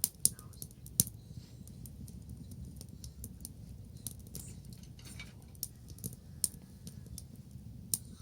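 Bonfire crackling, with irregular sharp pops over a low steady rumble; the loudest pops come right at the start and about a second in.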